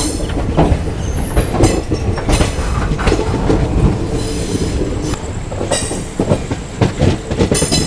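Amritha Express running along the track: a steady rumble of the coach with irregular knocks of the wheels over the rails and some wheel squeal.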